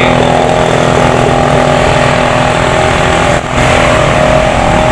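Car engine idling steadily, its tone holding even throughout, with a brief dropout about three and a half seconds in.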